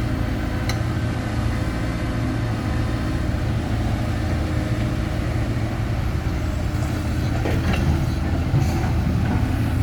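Heavy diesel engine running steadily, with a few short knocks about a second in and again near the end.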